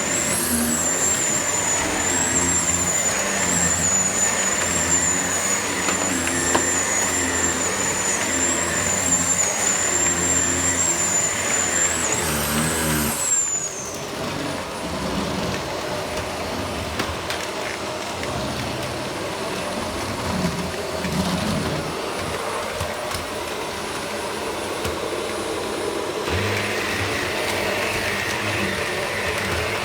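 Vacuum cleaner running with a steady high whine. About halfway through the whine falls away and stops, and a lower, rougher running noise carries on.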